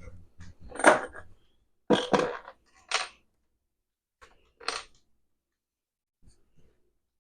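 A handful of short knocks and clatters of hard objects being handled, about five in the first five seconds, then quiet.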